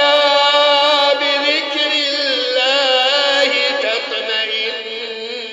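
A male voice chanting Qur'anic recitation in the melodic tajweed style, holding long ornamented notes that waver and bend in pitch.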